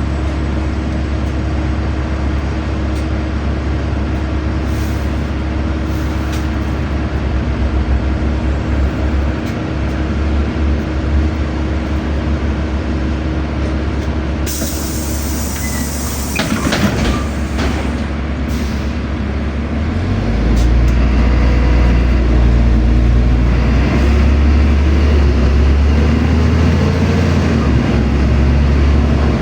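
LiAZ-5292.65 city bus heard from inside: the engine drones steadily, a burst of compressed-air hiss from the brakes or door system comes about halfway through, and from about two-thirds in the engine runs louder with a tone rising in pitch as the bus pulls away.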